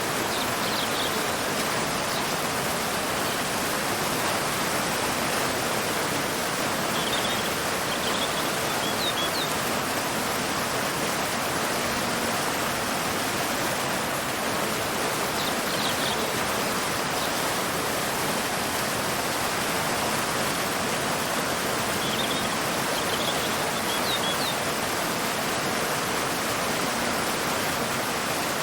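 Waterfall pouring into a river: a steady, even rush of falling water. A bird chirps briefly in short high clusters a few times, near the start, about a third of the way in, midway and near the end.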